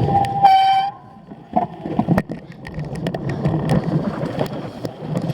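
Cyclocross bike being ridden: rushing wind and tyre noise, a brief high-pitched squealing tone about half a second in, then the rush drops away suddenly and the bike rattles and clicks over rough ground.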